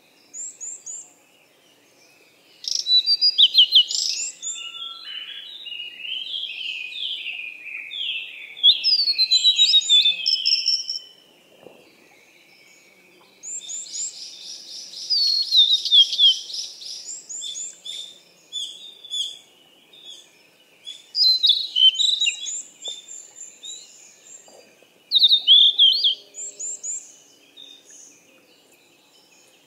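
Birds singing: quick chirps, whistled notes and fast trills in bursts of a few seconds, with short pauses between phrases.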